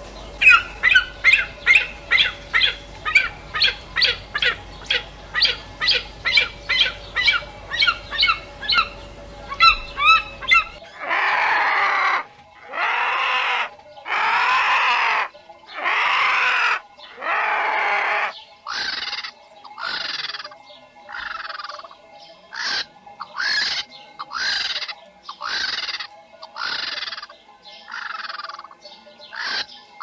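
A sequence of animal calls in three runs. First comes a fast series of short chirps, two to three a second, for about ten seconds. Then come about five long calls of roughly a second each, and then shorter calls at about one a second.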